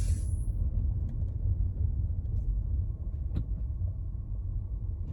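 Low, steady rumble of a car's engine and road noise heard from inside the cabin, with one faint click about three and a half seconds in.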